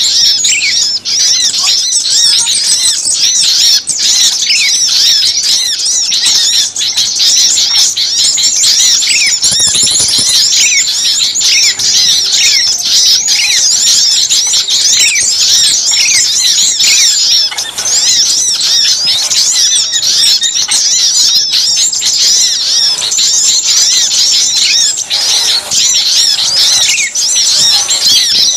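A dense, agitated chorus of many small songbirds, packed with rapid, overlapping high-pitched chirps and squeaks that keep up without a break. It is the noisy mixed-species racket played as a bird-catching lure ('suara pikat burcil ribut').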